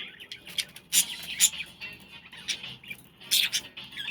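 Pet lovebirds chirping: a run of short, sharp, high chirps, loudest about a second in and again near the end.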